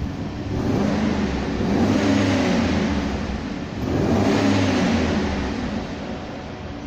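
A motor vehicle engine rising in pitch and loudness and falling away again, twice.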